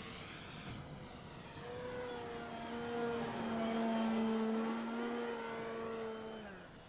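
Electric motor and propeller of a 65-inch OMP Hobby Bushmaster RC plane flying past. The steady tone grows louder toward the middle, then drops in pitch and fades near the end as the plane goes by.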